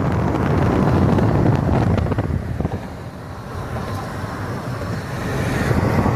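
Wind buffeting the microphone: a loud, uneven low rumble that eases off in the middle and builds again near the end.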